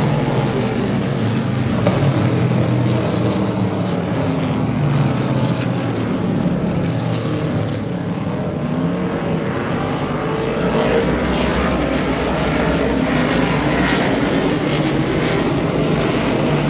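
A pack of vintage Trans-Am race cars with V8 engines at full throttle after the green flag, their engine notes rising and falling as they accelerate, shift and pass.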